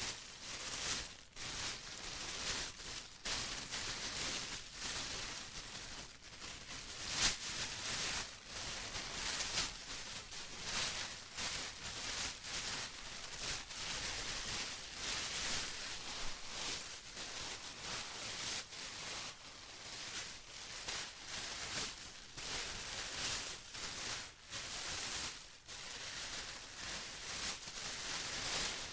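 Plastic being crinkled and rustled continuously, a dense crackling with frequent short crinkles and no steady rhythm.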